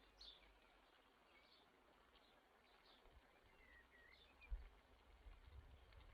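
Near silence with faint, scattered bird chirps in the background and a soft low thump about four and a half seconds in.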